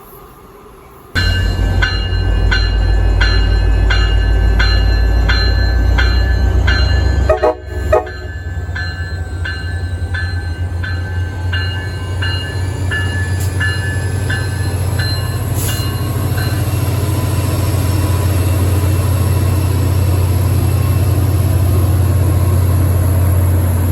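Train running close by with a steady heavy rumble, while a locomotive bell clangs about twice a second and stops about two-thirds of the way through. There is a brief louder sound a little before the middle.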